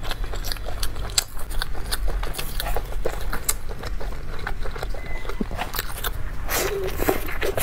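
Close-miked chewing of a soft steamed bun (baozi): a dense run of small wet mouth clicks and crackles, with another bite into the bun near the end.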